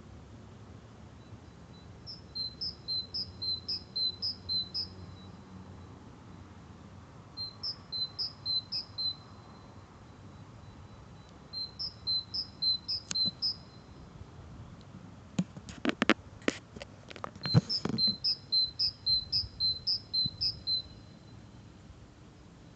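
A bird singing at night, of a species not identified: four phrases, each a quick run of about seven or eight two-note pairs alternating high and low. A steady high insect trill runs beneath, and a few sharp knocks come just after the middle.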